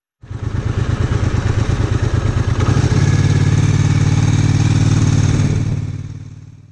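Triumph Bonneville America's parallel-twin motorcycle engine running, with rapid pulsing at first and then a steadier, louder drone about three seconds in. The sound cuts in abruptly and fades away near the end.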